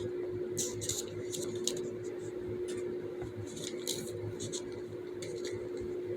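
Small plastic fidget toys being handled, making a scatter of brief, faint clicks and rustles over a steady low hum.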